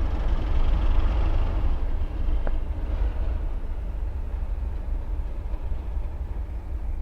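Train passing through a station, its rumble fading as it moves away, with a brief thin squeal about two and a half seconds in.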